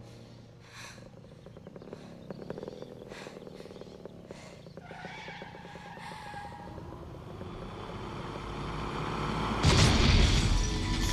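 Action-movie soundtrack: score mixed with vehicle engine noise, building steadily, then a heavy boom about ten seconds in.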